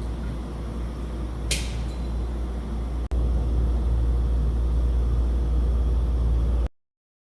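Ventilation fan machinery running with a steady low rumble. A short sharp click comes about a second and a half in. After a break at about three seconds the rumble is louder, and it cuts off abruptly near the end.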